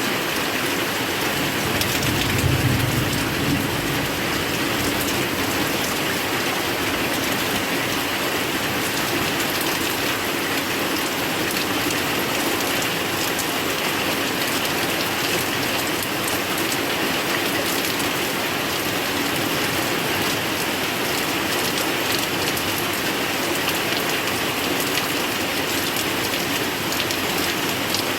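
Heavy rain pouring steadily, a dense, even patter of drops on surfaces. A brief low rumble rises under it about two to four seconds in.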